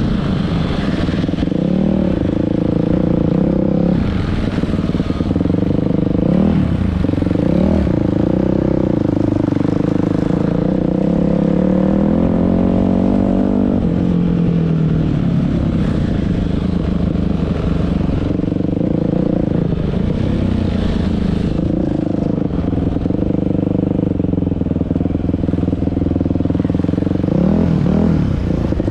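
Dirt-bike engine running under way, its revs rising and falling with the throttle: several short rev blips, and one long climb in pitch about halfway through that drops away suddenly, as at a gear change.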